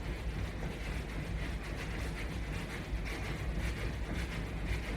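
Footfalls of someone jogging in place against resistance bands, a quick, even rhythm of soft steps over a steady low hum.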